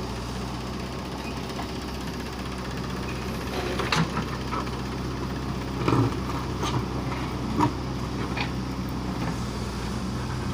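Diesel engine of a tractor or backhoe loader running steadily, with a few short knocks about four, six and seven and a half seconds in.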